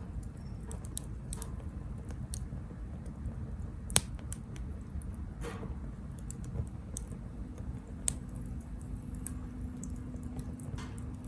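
Wood fire burning in a Captain Stag Kamado Smart Grill B6, crackling with scattered snaps and pops over a low steady rumble. The sharpest crack comes about four seconds in, and another about eight seconds in.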